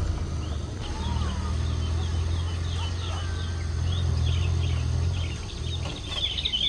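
Hyundai Trajet minivan's engine running as it pulls slowly away, a steady low hum that fades about five seconds in. Birds chirp and call throughout, and a dense insect chirring comes in near the end.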